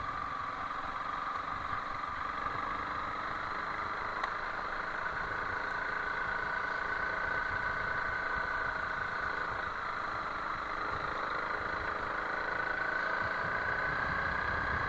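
Honda CRF300L Rally's single-cylinder engine running steadily at low revs, its pitch lifting slightly about five seconds in and again near the end.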